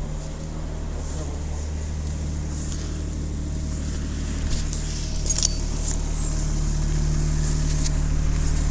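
City transit bus's diesel engine running with a steady low drone. A few sharp clicks and rattles come about halfway through, and the engine gets louder over the last couple of seconds.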